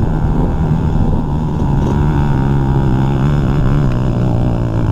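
Dirt bike engine running steadily at low revs, its pitch dropping slightly about three seconds in.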